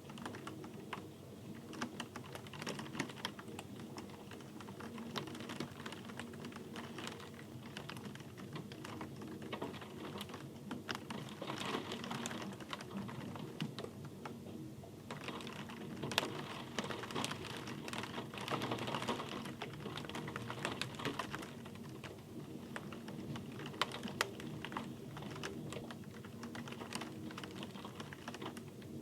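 Rain falling: a steady hiss with many close, irregular drops ticking and tapping on a hard surface.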